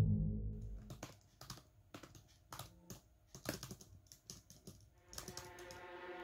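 Typing on a laptop keyboard: irregular, quick keystroke clicks, several a second. Background music fades out at the start and comes back in softly near the end.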